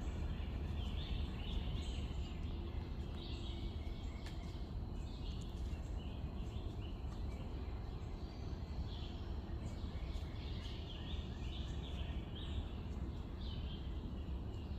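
Backyard ambience: small birds chirping in short repeated calls over a steady low rumble.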